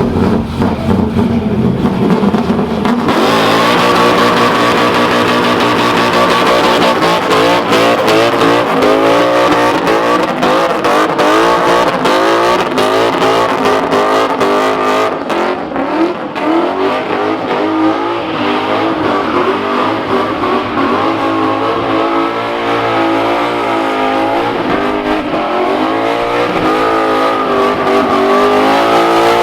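Car engine revving hard through a burnout, its pitch wavering up and down near the top of the revs, with the rear tires spinning and squealing on the pavement. It steps up to full intensity about three seconds in.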